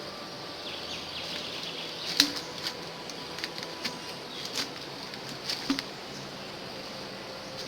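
Outdoor ambience with a steady high insect drone, broken by a series of sharp clicks and taps from twigs being handled, the loudest about two seconds in.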